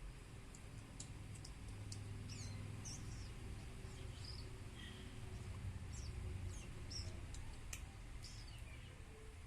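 Faint, short, high-pitched chirps and squeaks, mostly falling in pitch and coming irregularly a few to the second, over a low steady hum.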